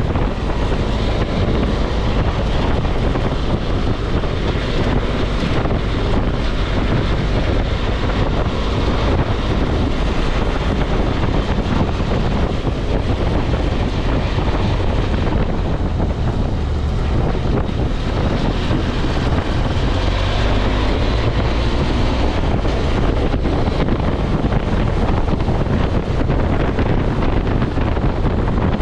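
Heavy wind buffeting on the microphone while a BMW F650 motorcycle is ridden, its engine and road noise running underneath.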